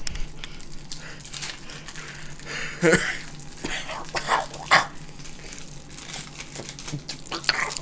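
Cheese packaging being handled and opened: irregular crinkling and rustling, with a couple of louder crackles about three and nearly five seconds in.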